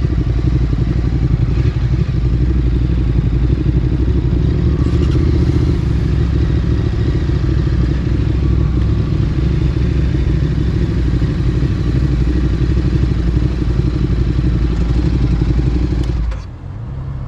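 Ducati Streetfighter 848's L-twin engine through a Termignoni exhaust, running at a steady, unchanging speed. About 16 seconds in, the engine sound cuts off abruptly and a different, lower engine sound carries on.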